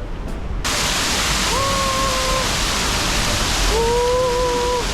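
Steady rush of flowing water from the Cheonggyecheon stream, starting abruptly under a second in. Two short held tones are heard over it.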